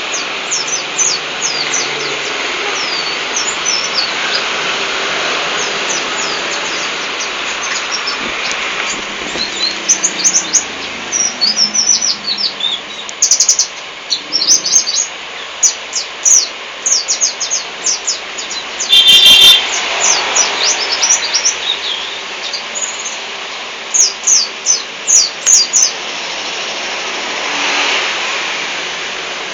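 White-eye (pleci) singing: rapid runs of high, thin chirps and twittering notes, coming in quick bursts over a steady background hiss. About two-thirds through, a brief loud buzzy sound stands out.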